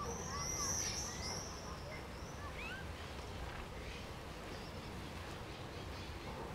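Birds chirping, with a bright high trill in the first second and a half and a few short chirps after it, over a steady low outdoor rumble.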